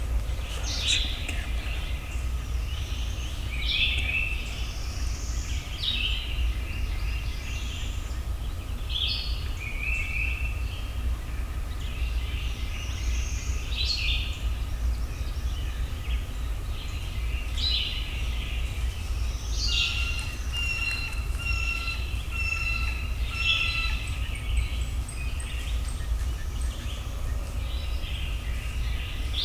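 Songbirds calling repeatedly with short chirping phrases, over a steady low rumble.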